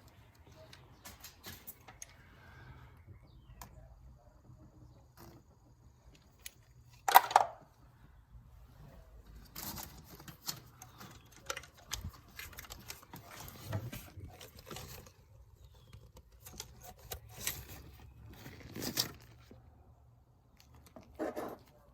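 Scattered clicks, clinks and knocks of tools and parts being handled during engine work, with a sharp knock about seven seconds in and busier clusters of clicking later on.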